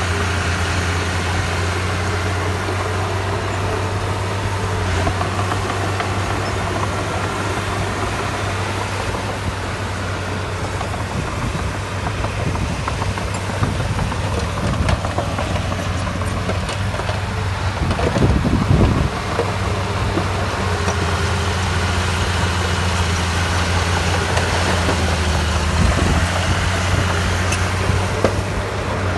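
Heavy diesel engine of earthmoving machinery running steadily. Its low hum eases off about ten seconds in, rises in a brief louder surge around eighteen seconds, then settles back to a steady run.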